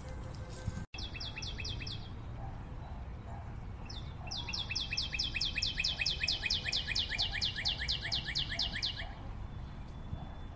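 A songbird singing fast trills of short, high, downward-sliding chirps, about six a second: a short run about a second in, then a longer one lasting about five seconds. A steady low rumble lies underneath.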